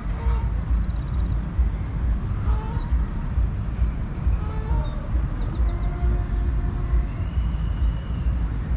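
Small songbirds singing: rapid high chirps and trills, repeating throughout. Under them runs a steady low rumble, which is the loudest sound.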